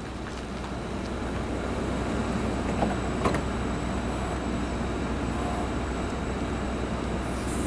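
NJ Transit Multilevel commuter train at the platform: a steady low rumble from the train, with two short sharp clicks about three seconds in.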